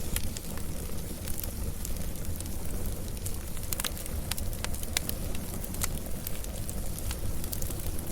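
Wood fire burning, with a steady low rumble and frequent sharp crackles and pops scattered irregularly throughout.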